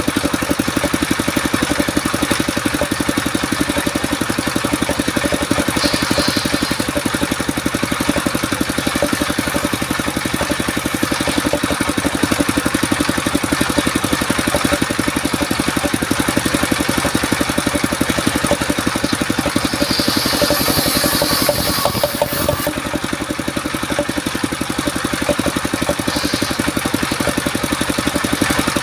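Engine of a mobile circular sawmill running steadily throughout, with a few brief high-pitched hissing bursts, the longest about two seconds, about two-thirds of the way through.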